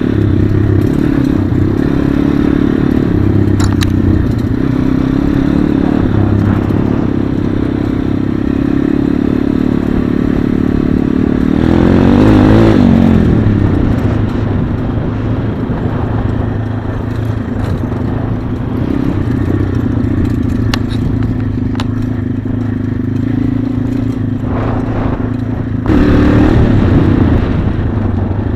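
Small pit bike single-cylinder engine running steadily, revving up about halfway through and again briefly near the end, with rattling and scraping mixed in.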